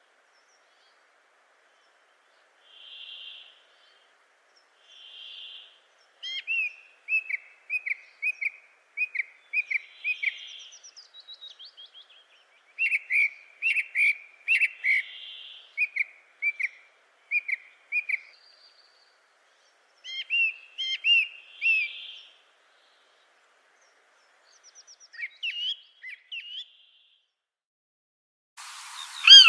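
Birds calling: runs of short, quick chirping notes, about two a second, and a separate hoarse, buzzy note that repeats every few seconds. A sudden louder burst with a falling call comes right at the end.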